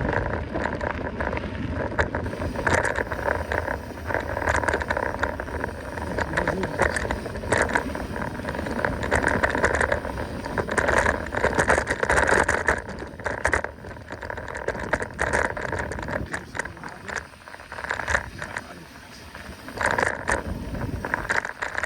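Mountain bike running fast downhill on a dirt trail: tyre noise over the ground with constant rattling and clattering from the bike over bumps. It eases off somewhat in the last few seconds.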